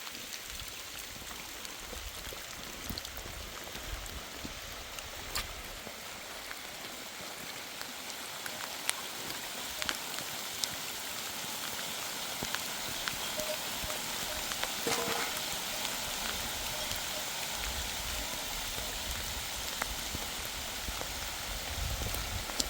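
Steady rain falling, with scattered sharp taps of individual drops, growing a little louder partway through.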